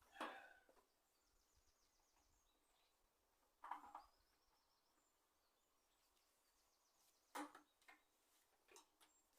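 Near silence broken by three short knocks or clatters about three and a half seconds apart, with a few smaller clicks near the end. Faint high chirps of a bird sound between them.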